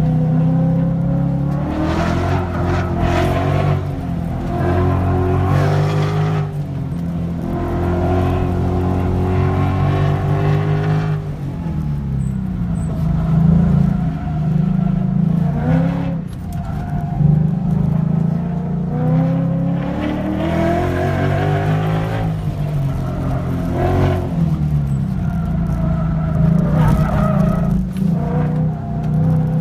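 Car engine heard from inside the cabin, repeatedly revving up and dropping back as the car accelerates and slows through the turns.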